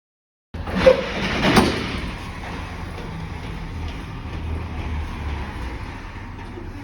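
Heavy truck's diesel engine running steadily with a low rumble, after two loud clunks in the first couple of seconds.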